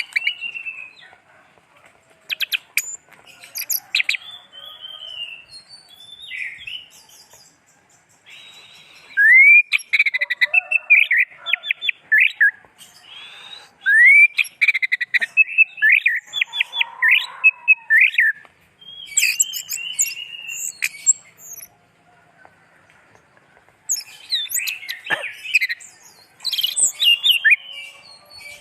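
Orange-headed thrush singing in bursts of rapid, varied whistled phrases with quick rising notes, pausing briefly between bursts.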